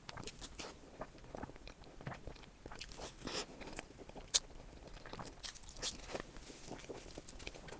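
Irregular small crunches and clicks, with one sharp, louder click about four seconds in.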